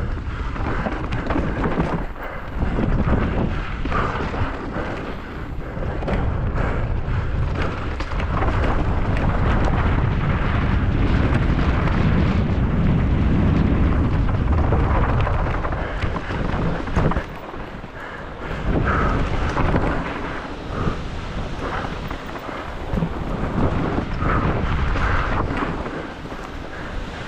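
Wind buffeting the microphone of a mountain bike descending at race speed, with the bike clattering and knocking over rough ground.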